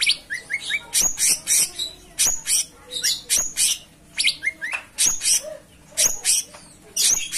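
Cucak cungkok singing non-stop: clusters of sharp, high chirps and quick rising notes, repeating about once a second.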